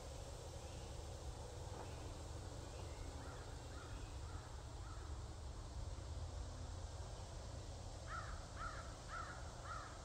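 A bird calling: several faint short calls, then four louder calls about half a second apart near the end, over a low steady rumble.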